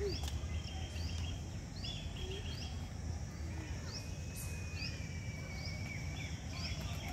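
Birds calling in the trees: a short high chirp repeated about once a second, with a few quick trills and a longer, slowly falling whistle midway, over a steady low rumble.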